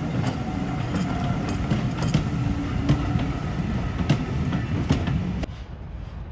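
Train running past on the rails: a steady rumble with irregular sharp clicks of wheels over rail joints. It cuts off suddenly near the end, leaving a quieter rumble.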